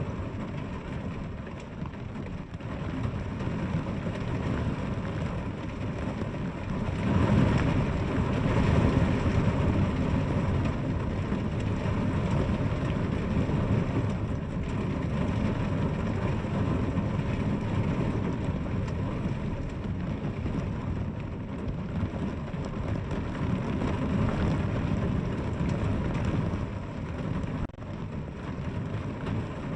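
Steady rain falling, with a deep low rumble underneath that swells louder for a few seconds about seven seconds in.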